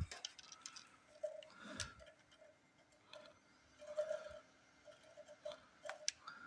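Irregular light clicks and knocks, faint, with a few sharper clicks about two seconds in and near the end.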